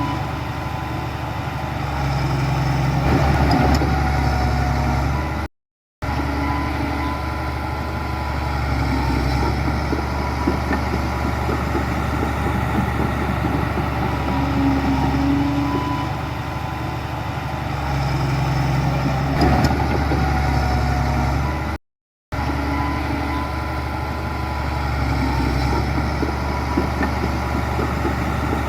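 Diesel engine of heavy earthmoving machinery running steadily, with small rises and falls in load. The sound cuts out to silence for a moment twice.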